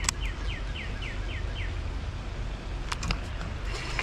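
A bird calling in a quick series of short falling chirps, about three or four a second, that stops under two seconds in. Two sharp clicks, one at the start and one about three seconds later.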